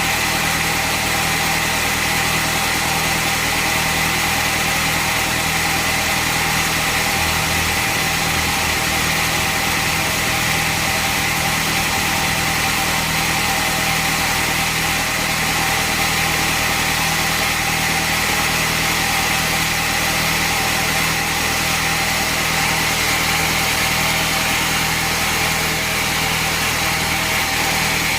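Bandsaw sawmill machinery running steadily at idle, not cutting wood, with a constant engine hum and a steady high whine.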